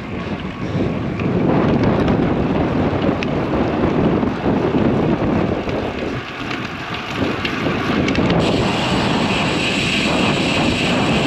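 Strong wind buffeting the microphone of a cyclist's camera as he rides along a highway, with road traffic noise underneath, surging louder at times.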